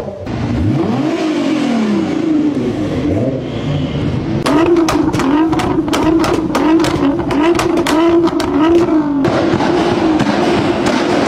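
Nissan GT-R's twin-turbo V6 revving through its exhaust. Near the start there is one long rev that rises and falls. A few seconds later comes a run of quick throttle blips, about three every two seconds, with sharp cracks among them. Near the end the engine runs at a steadier pitch.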